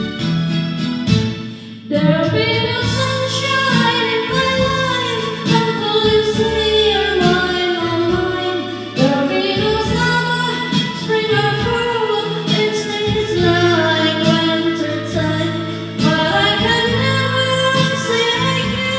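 A woman singing a song along with a karaoke backing track.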